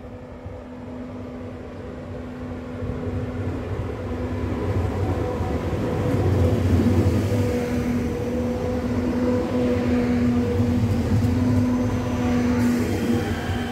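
A Slovenian Railways passenger multiple unit pulling into the platform as a container freight train rolls past on the next track: a steady electrical hum over the rumble of wheels on rails, growing louder over the first six seconds and then holding.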